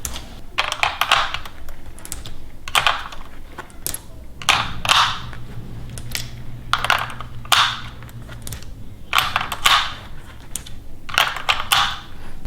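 7.62×39 mm cartridges being pressed one at a time into a 10-round AK magazine: a series of sharp metallic clicks and scrapes, about one a second.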